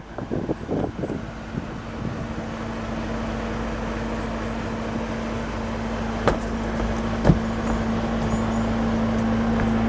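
A boat's engine running steadily: a constant-pitched drone sets in about a second in and slowly grows louder. Two short sharp knocks come about six and seven seconds in.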